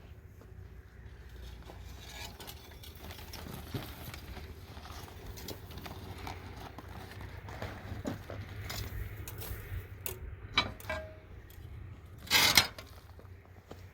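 Hand-work noises: scattered knocks and clicks over a low rumble, with a short loud noisy burst near the end.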